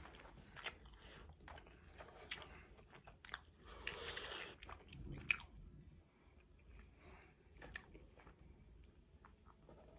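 Faint mouth sounds of a person chewing food: small wet clicks and smacks, with a breathy puff of air about four seconds in.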